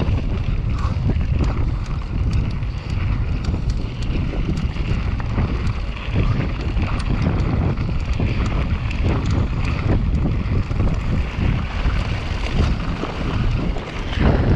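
Wind buffeting the microphone on a fast mountain-bike descent, over a constant rumble of tyres on rough, rocky ground with many small rattles and knocks from the bike.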